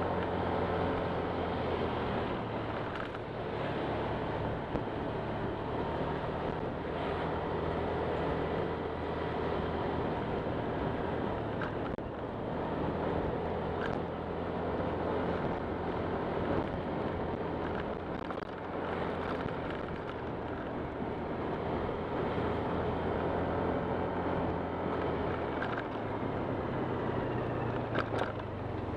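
Honda Click 125 scooter's single-cylinder engine running steadily while riding, with wind rushing over the microphone.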